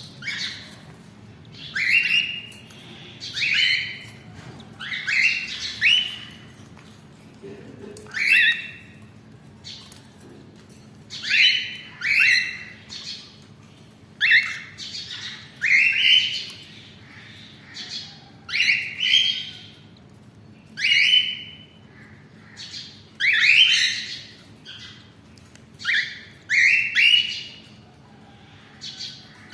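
Baby cockatiel begging to be fed, with short raspy rising squawks repeated every second or so, often in quick pairs.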